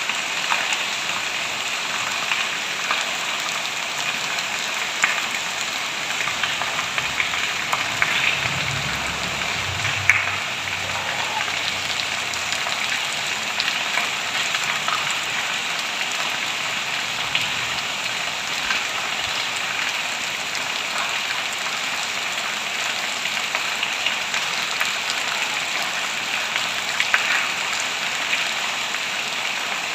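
Heavy rain falling steadily, with individual drops ticking on surfaces. A brief low rumble comes in about seven seconds in and fades a few seconds later.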